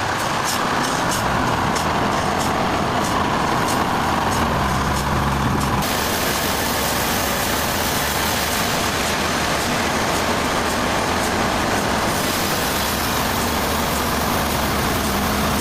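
Sawmill machinery running loud and steady: an engine hum under the dense noise of the saw, with a run of sharp ticks, about three a second, for the first six seconds.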